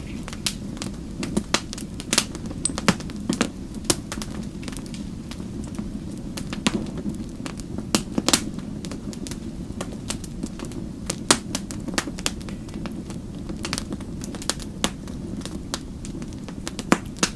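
Fire crackling in a fireplace: irregular sharp pops and snaps, a few a second at most, over a steady low rumble of the flames.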